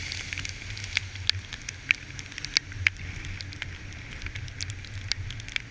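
Water spray striking the camera, heard as irregular sharp ticks and crackles of droplets over a steady low rumble.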